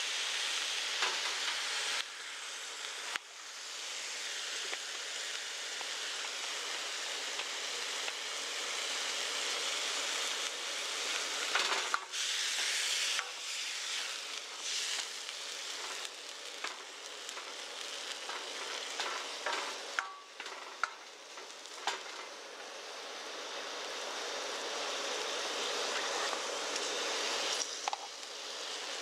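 Ground meat sizzling as it fries in a wok over a gas camp stove, a steady hiss. A metal spatula scrapes and knocks against the wok from time to time as the meat is stirred.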